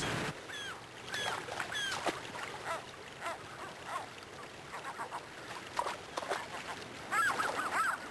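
A flock of geese honking: a steady run of short calls that crowd together near the end.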